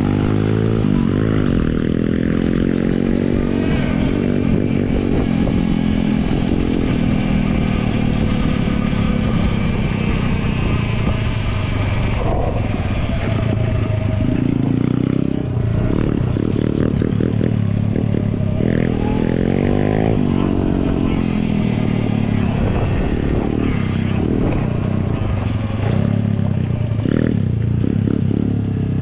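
150cc petrol dirt bike engine running under throttle as it is ridden, its revs rising and falling again and again.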